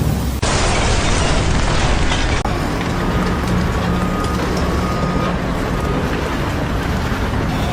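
Loud, steady engine or heavy machinery noise with a low rumble, broken by abrupt cuts about half a second in and again a couple of seconds in.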